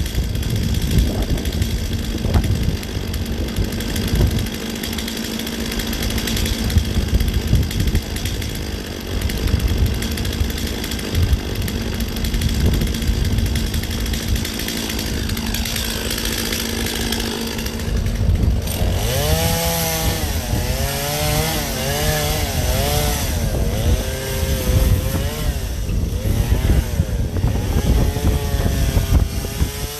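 Gas chainsaw running steadily, then in the second half revved up and down again and again as it cuts into the ice block.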